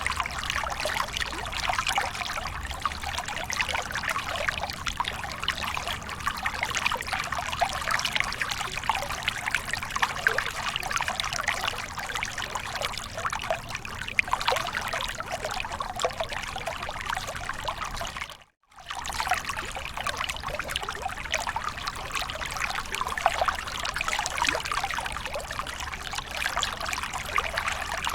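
Waterfall water splashing and pouring steadily, a continuous rushing and trickling. It cuts out abruptly for under a second about two-thirds of the way through, then resumes unchanged.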